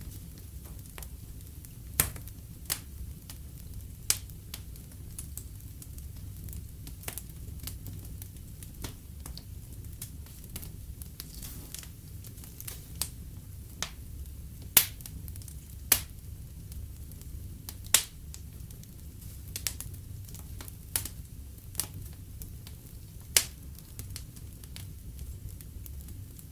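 Fireplace fire crackling, with sharp irregular pops over a steady low rumble of the flames.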